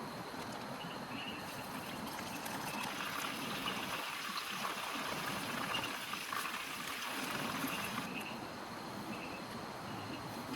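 Heavy rain falling steadily, growing louder for a few seconds in the middle, with short high chirps repeating in the background.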